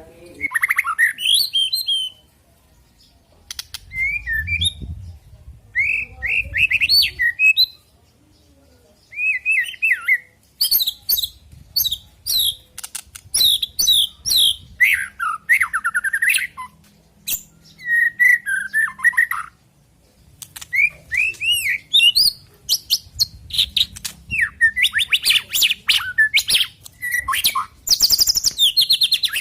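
White-rumped shama singing: loud, varied phrases of quick whistled sweeps, trills and sharp ticks, delivered in bursts with short pauses between them.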